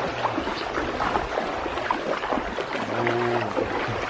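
Water splashing and lapping around kayaks being paddled, with scattered small splashes and knocks. A short voice call comes about three seconds in.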